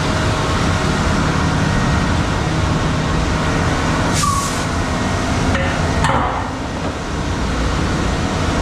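Concrete mixer truck running loud and steady at the plant, with two short hisses of air about four and six seconds in.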